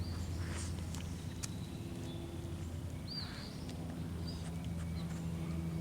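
Lakeside outdoor ambience: a steady low hum, joined about two seconds in by a steadier pitched drone, with a few short high bird chirps and faint clicks.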